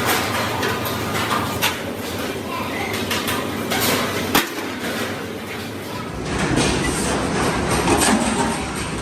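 Steel-fabrication workshop noise: sharp metal knocks and clanks over a steady din, the loudest strike about four and a half seconds in. About six seconds in a low rumble joins the din.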